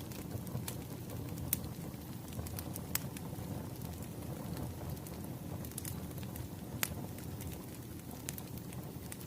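Firewood burning and crackling: irregular sharp pops and snaps over a steady low rumble.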